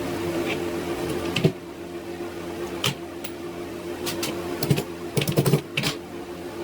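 Irregular small sharp clicks and knocks, about a second apart and then in a quick cluster near the end, over a steady low hum.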